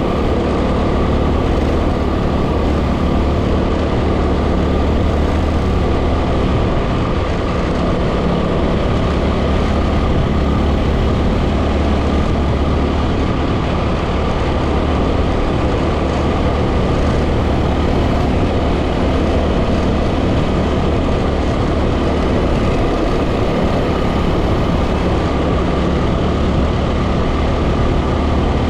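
A 2010 Yamaha WR250R's single-cylinder engine running at a steady pace while riding, under heavy wind noise on the microphone.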